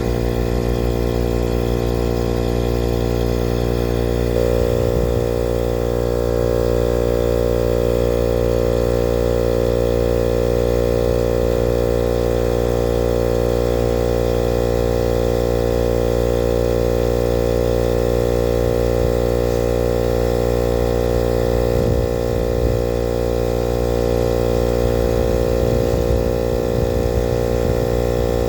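Pittsburgh 12-volt 150 psi portable air compressor running steadily under load as it inflates a 33x12.5 tire: a loud, even motor-and-pump hum with one strong mid pitch.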